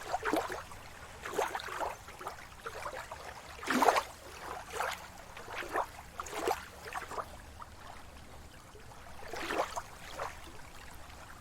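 Sea water lapping and splashing in short, irregular splashes about a second apart, over a low steady rumble.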